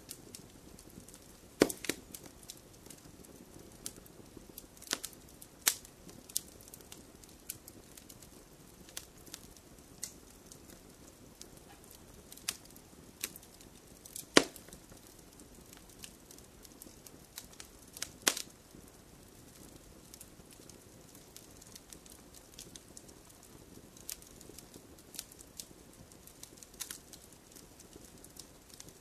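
Wood fire crackling in a fireplace: irregular sharp pops and snaps over a faint, steady hiss of the flames, with a few louder pops, about two seconds in, near the middle and a few seconds later.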